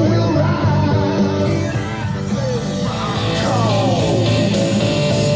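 Rock music with singing, received off an FM station by the Yamaha CR-2020's tuner and played through small, cheap speakers.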